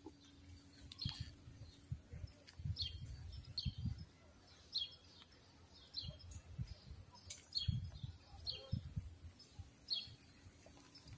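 A bird chirping repeatedly, short high calls about once a second, with low thumps underneath.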